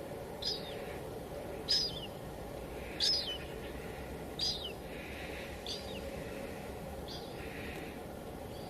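Steady hiss of light drizzle on a window, with a small bird repeating a short call that drops in pitch, about every second and a half, seven times.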